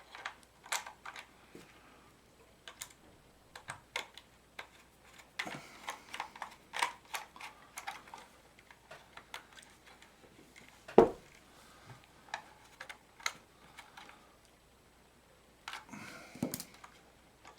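Scattered small clicks and taps of hands handling a plastic model locomotive on the bench, with one louder knock about eleven seconds in.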